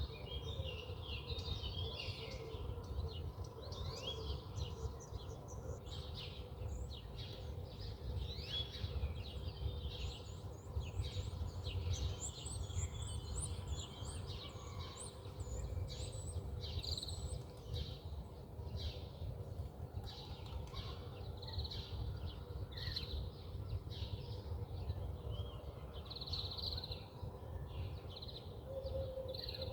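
Small birds chirping and twittering, with many short, quick calls overlapping one another throughout, over a steady low rumble.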